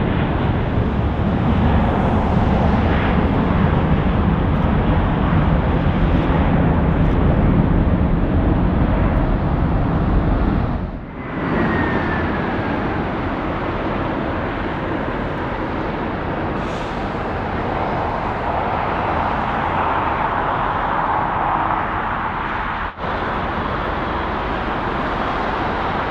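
Four-engine Boeing 747-400 freighter departing, its jet engines a loud, steady, deep rumble. The rumble cuts off abruptly about eleven seconds in, giving way to a thinner, steady rush of distant jet noise that swells near the end.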